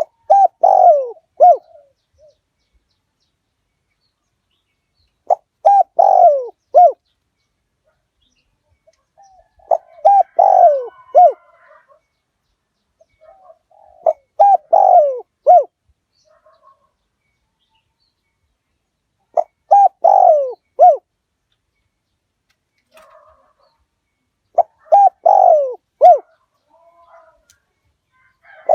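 Spotted dove cooing: a decoy bird's call, six phrases of three or four falling coo notes, repeated about every five seconds, used to lure wild doves.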